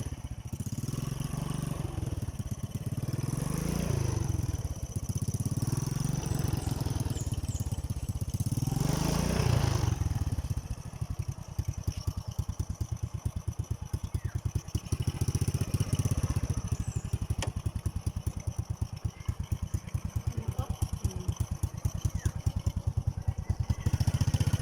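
Motorcycle engine running, its pitch rising and falling twice as it is revved or accelerated, then settling into a steady, even pulsing at low speed.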